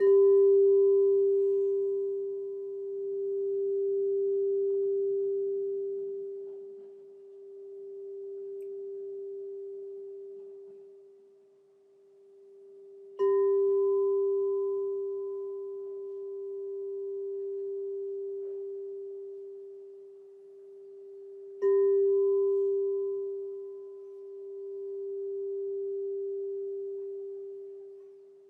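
Crystal singing bowl struck three times, at the start, about 13 seconds in and about 21 seconds in. Each strike rings one steady pure tone that decays slowly with a slow pulsing wobble in loudness.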